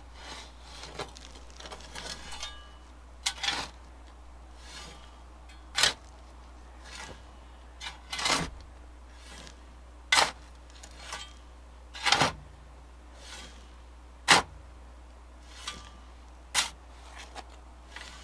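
Shovel strokes in dirt, short scraping scoops about one every two seconds, as soil is shovelled back over a buried plumbing pipe.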